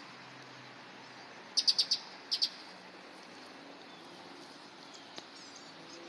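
A small bird chirping outdoors: a quick run of four high chirps about one and a half seconds in, then two more just after, with a few fainter chirps later, over faint steady background noise.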